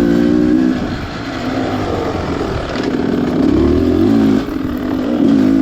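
Beta Xtrainer 300's two-stroke single-cylinder engine running under a dirt-bike rider's throttle, its pitch rising and falling as he rolls on and off the gas several times.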